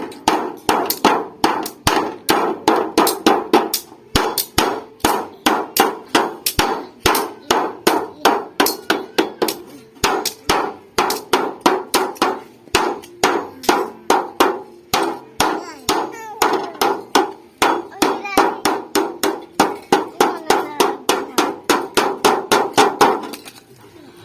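Hammer beating refrigerator sheet metal to fold a crease along its edge: a steady run of ringing metal blows, just under three a second, that stops about a second before the end.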